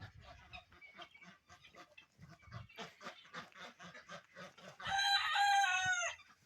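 Chickens clucking in short, rapidly repeated calls, then a rooster crows once, the loudest sound, for a little over a second near the end.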